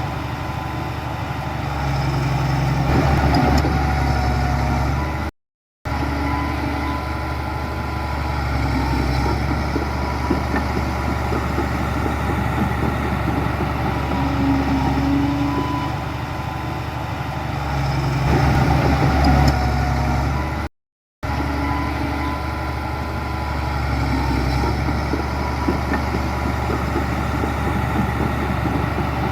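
Heavy diesel engine of earthmoving machinery running steadily, rising briefly twice, with the sound cutting out completely for a moment twice.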